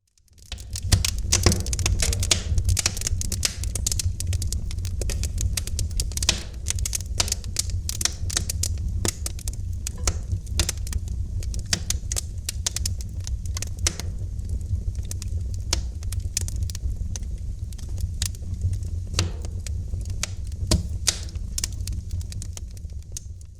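Wood fire in a fireplace crackling: irregular sharp pops and snaps over a steady low rumble of the flames. The sound rises out of silence within the first second.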